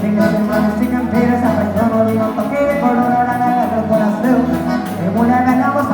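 Live gaúcho dance music: a gaita (button/piano accordion) carrying the melody over steady bass notes and a regular beat.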